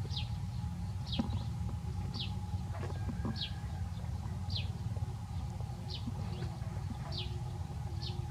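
A bird calling over and over, a short falling whistle repeated about once a second, over a steady low rumble.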